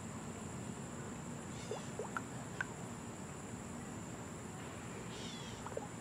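Faint outdoor background hiss with a few short, rising bird chirps, a cluster about two seconds in and another near the end.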